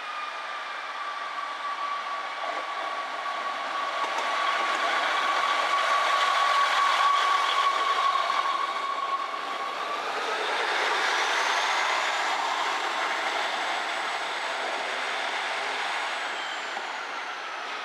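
A train moving through a station, with a steady high-pitched whine that rises in pitch about halfway through. It is loudest in the middle.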